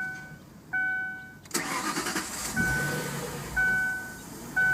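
Ford Thunderbird's 3.9-litre DOHC V8 cranking and catching about a second and a half in, over an electronic warning chime of a few steady tones that rings about once a second.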